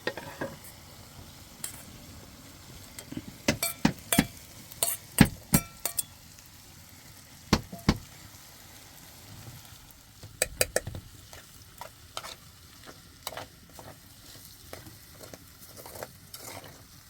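Cooking utensils knocking and clinking against metal pots and dishes: a run of sharp knocks, several of them ringing, heaviest in the first half, then lighter taps, over a faint steady hiss.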